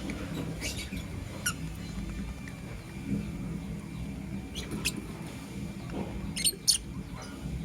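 Lovebirds giving short, sharp, high chirps, spaced out in small clusters, with the loudest pair about six and a half seconds in. A steady low hum runs underneath.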